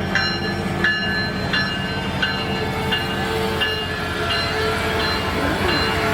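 A train rolling slowly past with a low rumble, while a railroad crossing bell rings steadily, about three strikes every two seconds.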